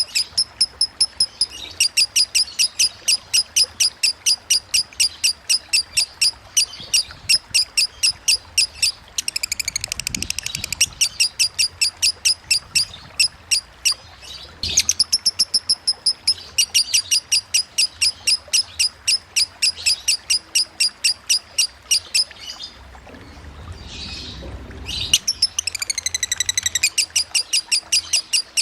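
Lovebird singing in long runs of rapid, shrill chirps at about five a second: the continuous ngekek trill of a konslet-style lovebird. The runs break twice for short bursts of falling squeaky calls and once for a pause of a few seconds.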